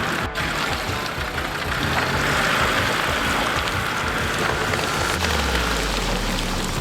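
Off-road 4x4's engine working under load through a muddy track, its low note rising about two seconds in and deepening near the end, over a steady hiss of wet mud and spray.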